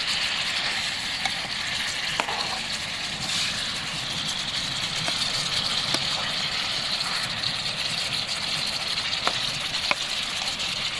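Chicken pieces frying and sizzling in a pan, a steady hiss, with a few light clicks of the stirring spoon. The chicken is still giving off its own water, which is being cooked off before it browns.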